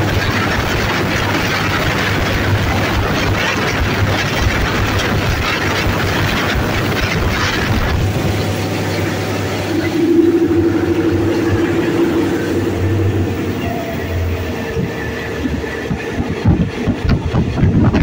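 An Alsthom diesel-electric locomotive running under way with a local passenger train, heard from the coach coupled right behind it: a steady engine drone under the rush of wheels on rail. About ten seconds in, a steady hum rises out of the rush, and near the end irregular knocks come in.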